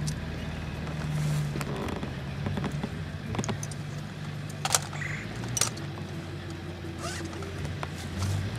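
A vehicle engine running at low speed, a steady low hum that rises and falls slightly, with a few sharp clicks or snaps over it.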